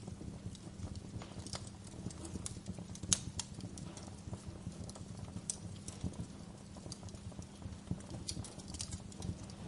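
Wood fire crackling in a fireplace: irregular snaps and pops over a low steady rumble, with one sharper pop about three seconds in.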